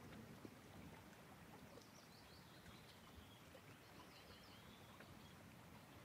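Near silence: faint outdoor ambience, with a series of faint, high, short bird chirps between about two and five seconds in.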